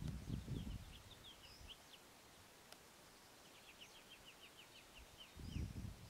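Bird calling in two quick runs of short, high, thin notes, about nine a second, one near the start and one in the middle. Low rumbling underlies the calls, heaviest at the start and again near the end.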